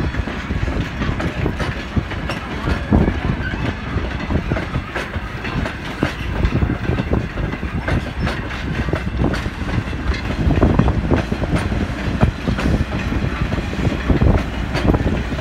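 Railroad passenger coaches rolling past at low speed: a steady rumble with wheels clicking over rail joints and the crossing.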